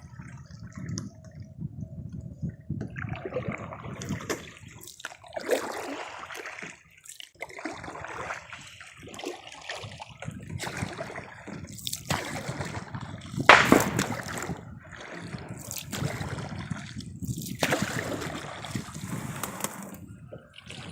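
Kayak paddle strokes: water splashing and sloshing as the blades dip in, with dripping and trickling between strokes. One sharp knock about two-thirds of the way through.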